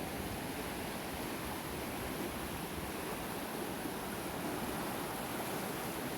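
Steady rush of a creek running high and fast with snowmelt.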